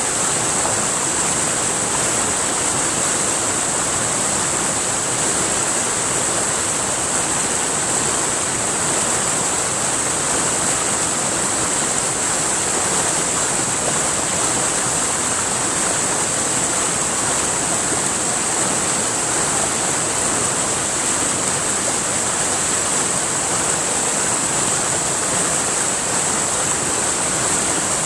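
River water rushing and splashing steadily over rocks, with a constant high-pitched hiss laid over it.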